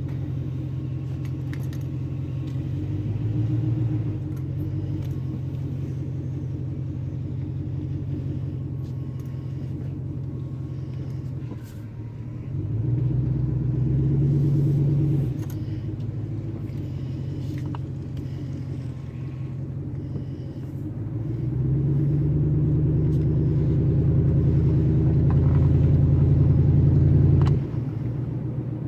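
Pickup truck engine running with the muffler removed, its exhaust heard from inside the cab while driving. It grows louder under acceleration a few times, longest in the last third, then drops back shortly before the end.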